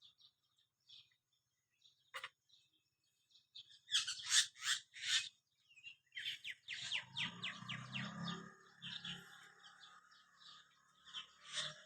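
A small bird chirping: a few faint scattered chirps, then four loud chirps in quick succession about four seconds in, followed by a longer run of rapid chirps from about six seconds in.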